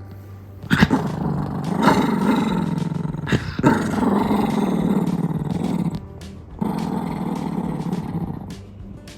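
Shih Tzu growling while it holds onto its ball, guarding its toy. The growl runs for about five seconds, breaks off, then comes again more briefly. Background music plays underneath.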